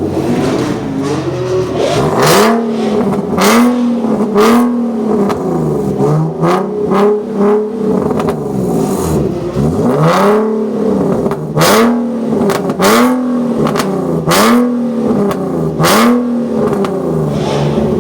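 Nissan 370Z's 3.7-litre V6 exhaust as the engine is revved over and over in short blips, the pitch rising and falling about a dozen times.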